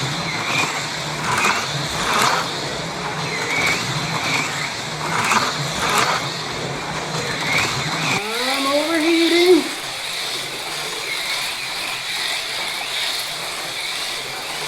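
AFX Mega G+ HO slot cars running laps on a plastic track: a steady high motor whine with a swell each time a car passes. About eight seconds in, the low rumble stops and a rising tone lasts about a second and a half before the whine carries on alone.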